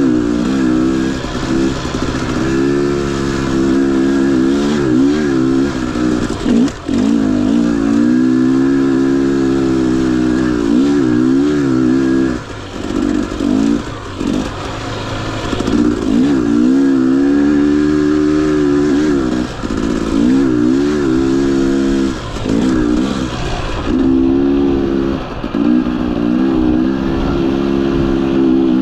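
Husqvarna TE 250i's two-stroke single-cylinder engine under constant throttle changes as the bike is ridden: revving up and down, with short drops several times where the throttle is closed.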